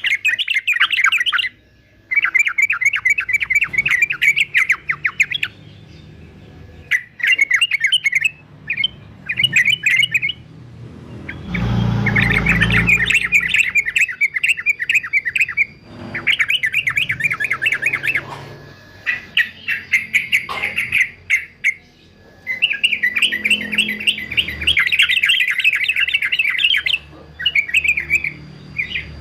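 Male yellow-vented bulbul (trucukan) singing in fast chattering bursts, phrase after phrase with short pauses between. A brief low rumble sounds under the song about twelve seconds in.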